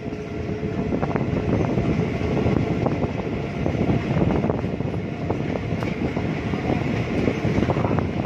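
Passenger train running at speed, heard from the side of a coach: a steady rumble of wheels on the rails with scattered clicks, and wind buffeting the microphone.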